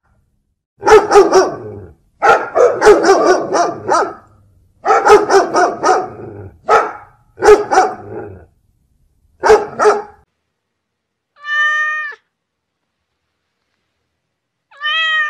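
A dog barking in quick runs of barks for most of the first ten seconds, then a cat meowing twice, a few seconds apart.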